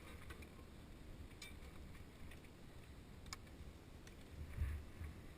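Motorcycle engine idling faintly, a low uneven rumble, with two light clicks and a brief swell in the rumble near the end.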